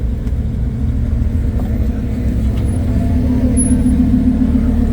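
Car engine running at low revs: a steady low rumble whose hum grows stronger about three seconds in.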